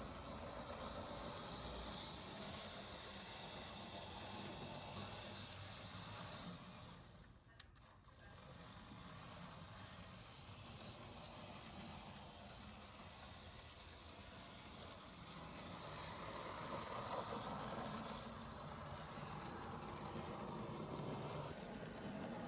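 Z scale model locomotive, an AZL Union Pacific SD70ACe, running along its track: the faint, steady whir of its small motor and the running of its wheels on the rails, dropping away briefly about seven seconds in and then picking up again.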